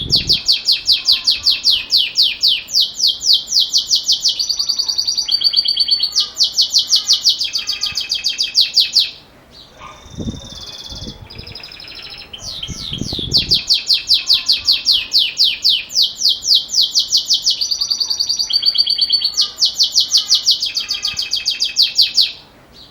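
Belgian canary singing its 'metallic bell' (campainha metálico) song: long bouts of fast, evenly repeated high trilled notes that change phrase every second or two. Two bouts, with a pause of a few seconds between them near the middle.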